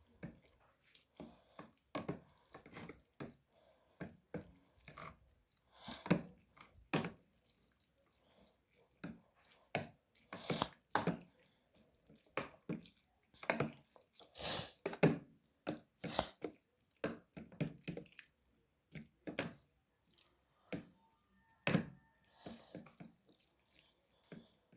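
Fork clinking and scraping against a bowl as noodles are stirred with their seasoning: a string of irregular short taps and scrapes.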